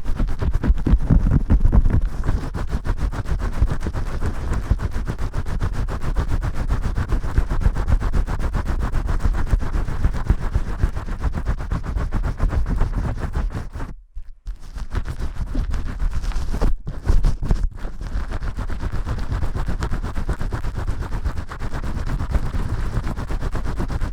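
Shampoo lather being scrubbed hard by hand: a loud, dense, rapid crackling that breaks off briefly about fourteen seconds in and dips again a few seconds later.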